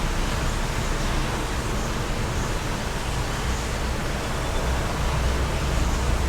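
Steady rush of wind outdoors, with a low rumble underneath.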